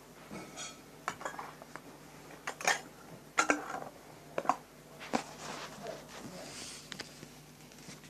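Hard objects clicking and clattering as they are handled, in an irregular run of a dozen or so sharp knocks, the loudest around the middle.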